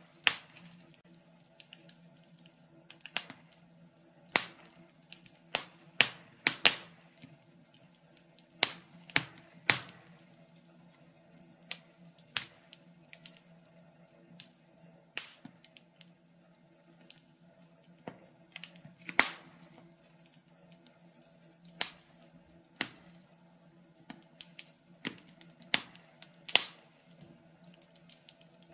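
Wood fire burning in a fireplace, crackling with irregular sharp pops and snaps, some louder than others, over a faint steady low hum.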